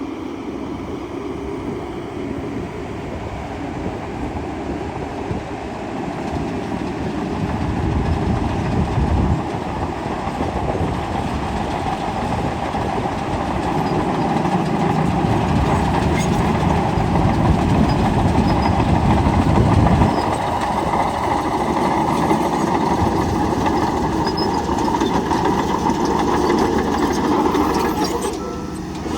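Bulldozer working: its diesel engine running under load while the steel tracks clatter, louder in the middle stretch and easing again before a brief dip near the end.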